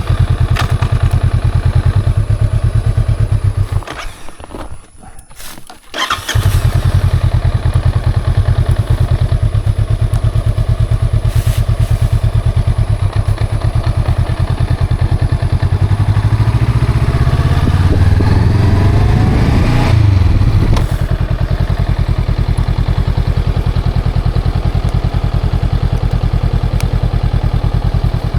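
Honda CL500's parallel-twin engine idling with a steady exhaust beat. It drops away for about two seconds shortly after the start, then catches again. Past the middle the revs rise and fall back to idle.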